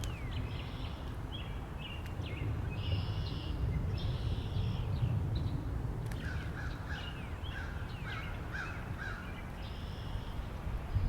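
Wind rumbling low and steady, with several birds calling over it in short chirps and chattering phrases; from about halfway a run of short repeated lower notes joins in.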